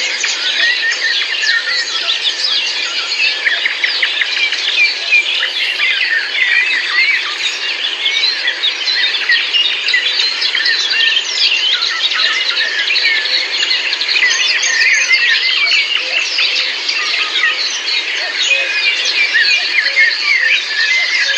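A dense chorus of many songbirds singing and chirping at once, calls overlapping without pause.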